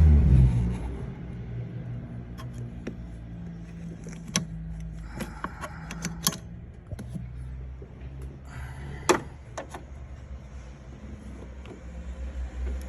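Scattered small clicks, clinks and scrapes as the car's AC expansion valve is worked loose by hand and pulled out, over a low steady hum. There is a sharper click about nine seconds in.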